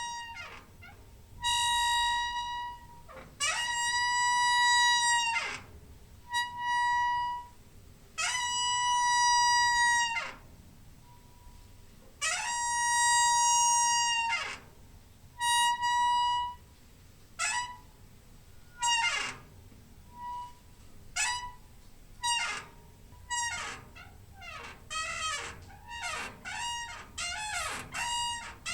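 A creaking door hinge squeaking again and again as the door swings. In the first half come several long squeaks, each held on one pitch for a second or two. From about halfway the squeaks turn short and slide in pitch, coming faster and faster toward the end.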